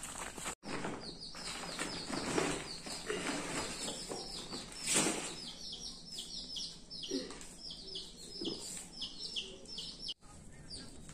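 Small birds chirping: short, high, downward-sliding chirps repeated about three times a second, with some rustling in the first half and a louder rustle about five seconds in.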